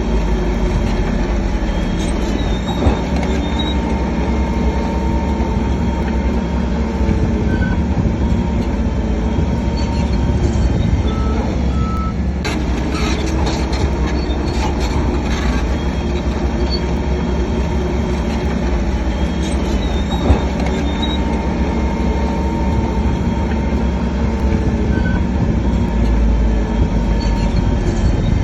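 Heavy earthmoving machinery at work: a crawler bulldozer's diesel engine running steadily, with metallic squealing from the tracks and a truck's reversing alarm beeping a few times.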